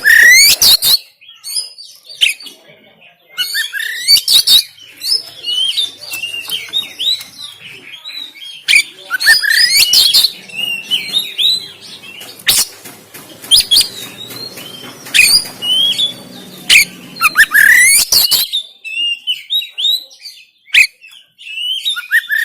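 Oriental magpie-robin (kacer) singing loud, harsh phrases of rising whistles and rapid chirps in bursts, with short pauses between them.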